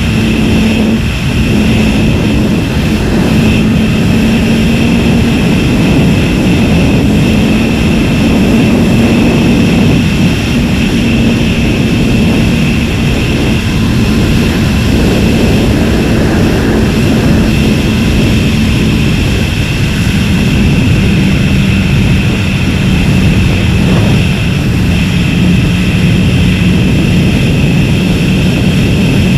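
Aprilia RSV V-twin motorcycle engine running at a steady cruising speed, mixed with loud wind rush. The engine note drops slightly about two-thirds of the way through.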